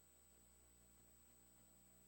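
Near silence: a faint steady electrical hum with a thin high whine.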